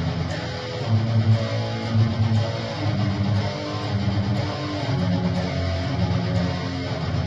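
Guitar playing a low, bass-string chorus riff: a run of picked notes on the sixth string followed by a strike on two strings, repeated as the hand shifts up and down the neck.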